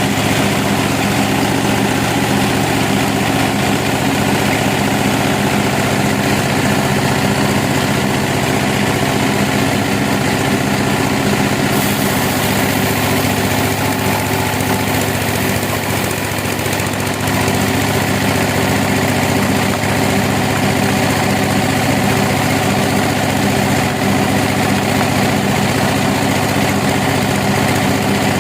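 Sawmill machinery running steadily, its engine giving an even hum with a brief dip in level about sixteen seconds in.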